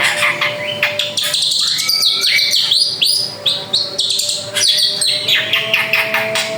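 Drongo singing a rapid, varied song: clear whistles, fast up- and down-sweeping notes and dry clicking strokes, one after another without pause.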